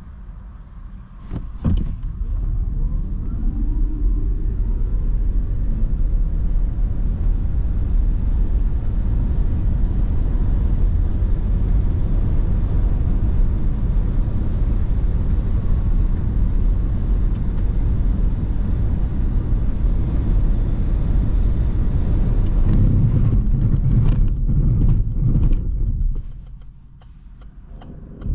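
Peugeot e-208 pulling away hard from a standstill: its electric motor gives a faint whine that rises in pitch, under loud tyre and road noise that grows and then holds steady at speed. About 22 seconds in comes a rapid series of knocks and thumps as the car brakes hard, and the noise dies away as it comes to a stop.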